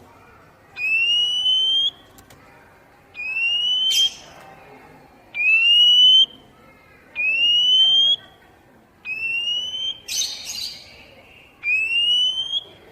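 Oriental magpie-robin (kacer poci) giving its basic call: six clear whistled notes, each rising in pitch over about a second and repeated every two seconds or so, with a short harsh rasp twice.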